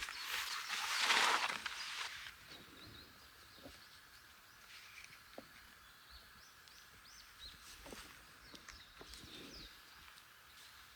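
A brief noisy rush for about the first two seconds, then quiet outdoor air with birds chirping faintly and a few small clicks.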